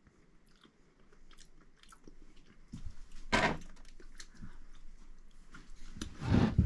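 A man chewing and eating a mouthful of rehydrated beef stroganoff noodles and sauce: quiet wet mouth and chewing sounds, with louder ones about three and a half seconds in and near the end.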